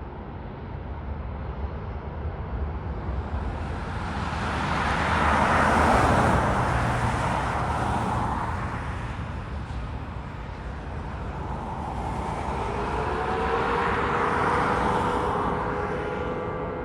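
Airbus A319 jet engines at takeoff power, a roar that swells as the airliner passes and eases off. It swells a second time near the end, now with a steady whine over the roar.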